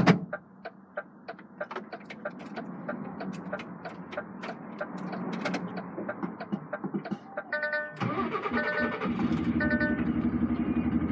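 Lorry's diesel engine starting up, heard inside the cab: clicks and a low hum at first, settling to a stronger steady run about eight seconds in, with a short run of repeated electronic beeps.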